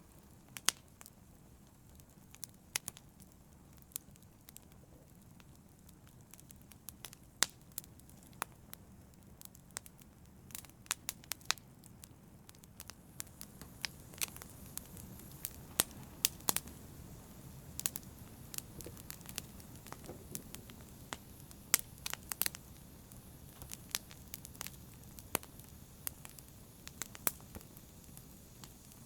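Wood fire burning in a fireplace: a low steady rush of flame with sharp crackles and pops at irregular intervals, thickest in the second half.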